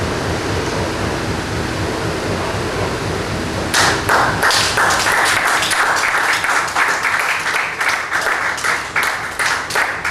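Dense low rumbling noise music from the live noise ensemble, which stops abruptly about four seconds in. Audience applause and clapping follows.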